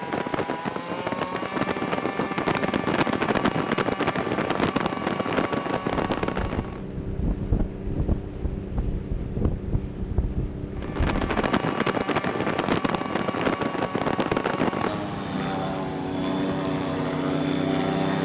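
Engines running, each with a steady pitched drone. The sound changes abruptly about seven, eleven and fifteen seconds in, as if cut between different engines.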